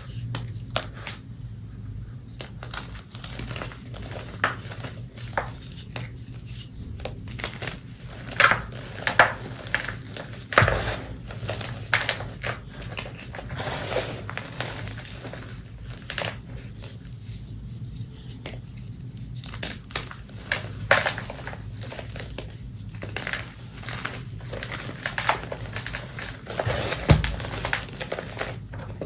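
Reformed gym chalk being crushed and crumbled, a run of irregular dry crunches and crackles with a few louder snaps.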